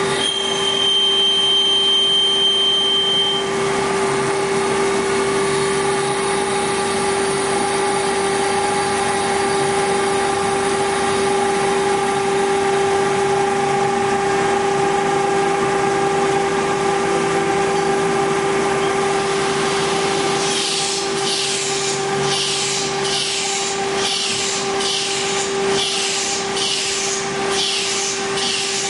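Hager HD300A-CNC computer-controlled wood lathe running with a steady motor hum. About two-thirds of the way in, a regular rasping begins, about one and a half strokes a second, as the tool works the spinning wood.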